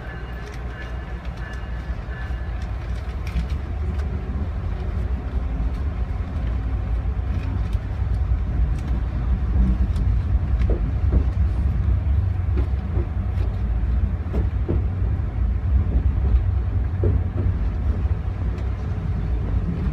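Rumble of a passenger train's Amfleet coach running on rails, growing louder over the first half and then holding steady, with scattered short knocks and clacks from the wheels and running gear.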